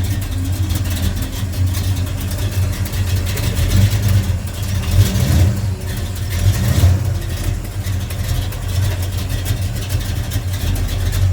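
Car engine running near the microphone with a steady low rumble, swelling briefly about five and again about seven seconds in.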